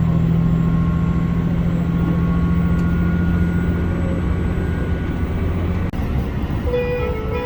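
Diesel railcar engine running steadily, a low even hum with no rise or fall in pitch. About six seconds in there is a short break, and a few steady musical tones come in near the end.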